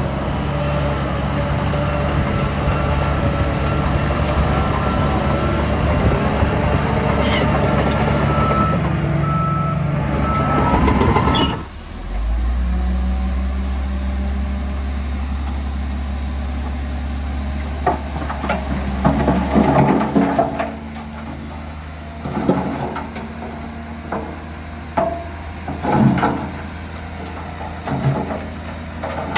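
Heavy diesel earthmoving machinery at work: a steady engine drone with a few short high beeps from a reversing alarm. About twelve seconds in, the sound changes abruptly to a lower engine hum, later broken by scattered knocks and clattering.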